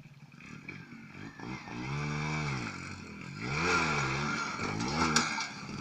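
Motorcycle engine revving and accelerating past, its pitch rising and falling three times and loudest in the middle, with a sharp click about five seconds in.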